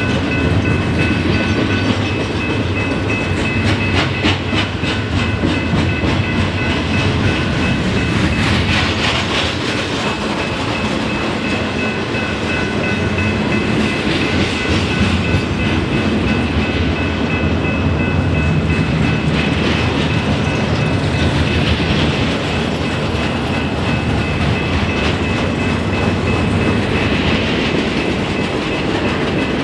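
A train rolling past steadily, its wheels clicking over the rail joints in a continuous heavy rumble, with a few steady high-pitched tones ringing over it.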